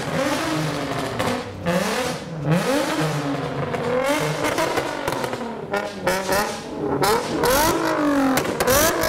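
Car engines revving and accelerating hard, the pitch climbing and then dropping again and again, most often in the second half.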